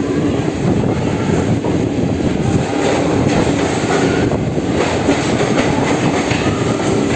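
Passenger train running through a rail tunnel, heard from on board: a loud, steady rumble of wheels on the track with clicking from the rails.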